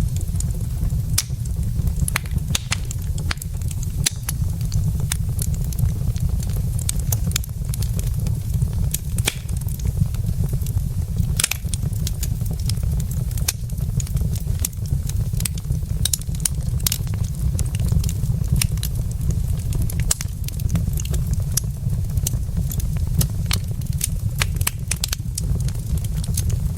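Wood fire burning in a fireplace, with frequent sharp, irregular crackles and pops from the logs over a steady low rumble.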